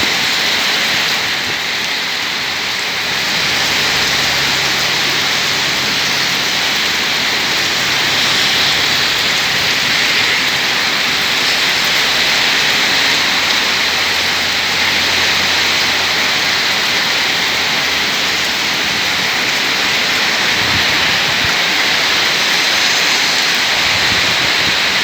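Heavy rain falling steadily, a constant loud hiss of rain on surfaces, with a faint low hum underneath at times.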